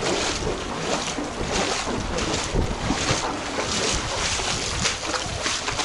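Floodwater splashing and sloshing in a quick, uneven rhythm, with wind noise on the microphone.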